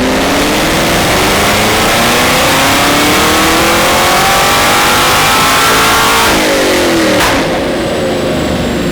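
A car engine at full throttle in one long pull, probably on a chassis dyno: its pitch rises smoothly for about six seconds with no gear change, then it lifts off and winds down. A sharp click comes about seven seconds in.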